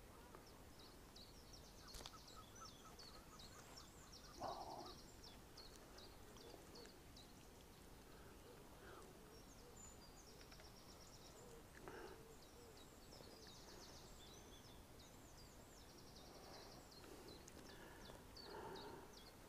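Faint birdsong: small birds giving short chirps and rapid trills over quiet outdoor background noise, with one brief louder sound about four and a half seconds in.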